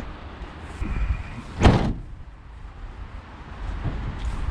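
A van door shut with one loud, brief bang about a second and a half in, over a low steady rumble.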